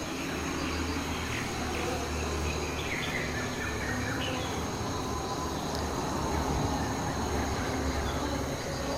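Trail camera's own recording of still forest ambience: a steady low hum and hiss with a thin high steady tone, and a few faint bird chirps between about one and four seconds in.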